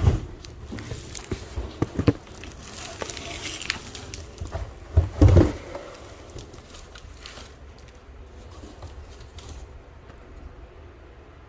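Cardboard box and packaging being handled: scattered knocks, clicks and rustling, with two heavy thumps, one right at the start and one about five seconds in, then quieter handling toward the end.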